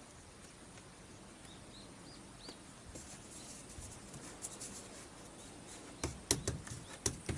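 A few faint short bird chirps, each rising and falling, then several sharp clicks and knocks near the end.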